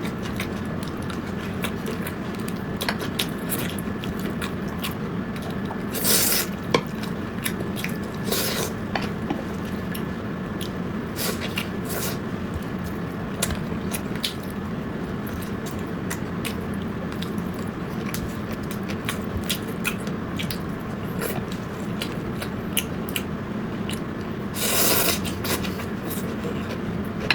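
Close-up eating sounds: wet chewing and a few longer slurps, with utensils clicking and clinking on dishes, over a steady low hum.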